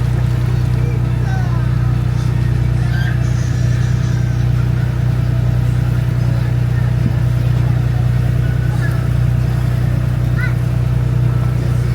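Boat engine running steadily at a constant speed, a loud, even, low drone with no change in pitch.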